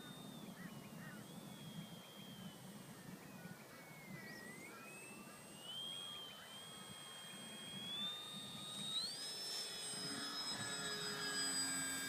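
Electric motor and propeller of a small RC foam airplane whining faintly in flight. The pitch sinks to its lowest about four seconds in, then climbs and stays highest from about nine seconds on.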